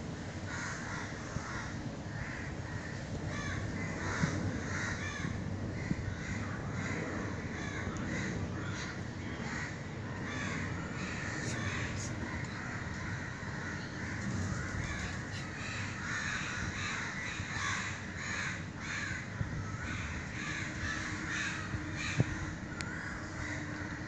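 Birds calling many times over, short calls that keep coming throughout, above a steady low background noise.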